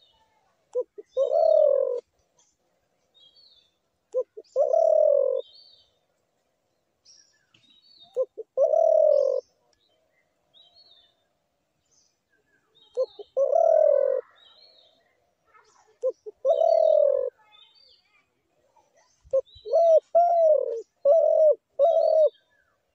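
A dove cooing: each phrase is one or two short clipped notes followed by a longer coo, repeated about every four seconds, ending in a quicker run of four short coos. Faint high chirps of other small birds are heard between the phrases.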